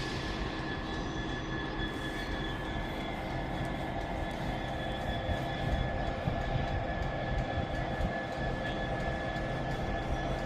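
Avanti West Coast class 807 Evero electric train running in, with a steady electric whine from its traction equipment over the rumble of wheels on rail, growing a little louder about halfway through.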